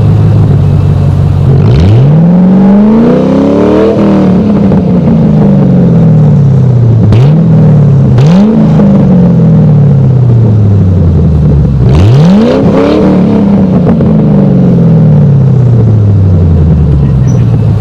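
Muffler-deleted Ford Mustang GT's 4.6-litre two-valve V8 exhaust, loud and open. The engine revs up sharply twice, about two seconds in and again about twelve seconds in, each time falling away slowly, with two short blips between them.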